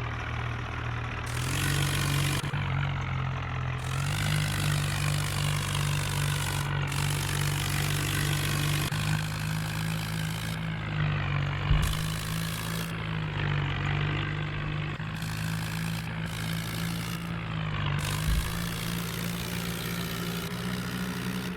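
Tractor engine running steadily at a fairly constant speed, with a couple of short low knocks partway through.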